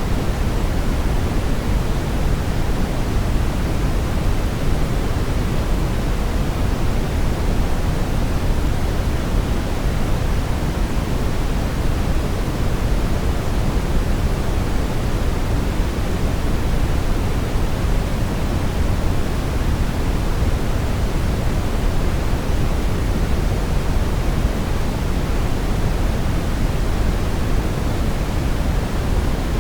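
Steady synthetic brown noise: an even, deep rushing hiss, strongest in the low end, that does not change.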